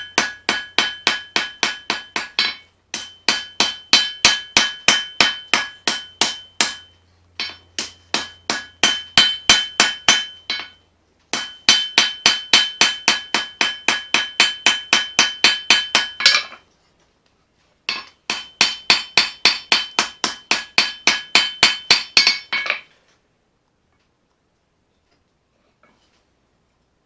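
Hand hammer striking hot steel on an anvil, forging a knife blade from a car leaf spring: five runs of rapid blows, about four a second, each blow ringing, with short pauses between runs, then the hammering stops about four seconds before the end.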